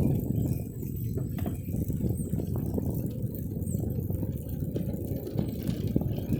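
Bicycle riding over the road: a steady low rumble with scattered rattling clicks from the bike.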